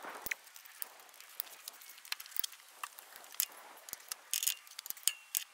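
Scattered light metallic clicks and clinks of hand tools and small engine parts being handled, with one brief ringing clink near the end.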